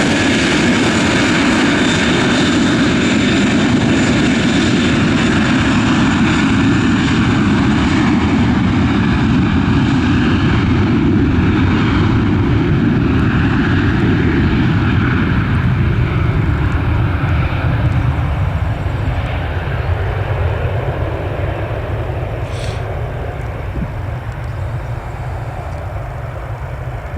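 Boeing 737-800's twin CFM56 turbofan engines at takeoff thrust, a loud steady jet rumble and roar that begins to fade after about 16 seconds as the aircraft moves away.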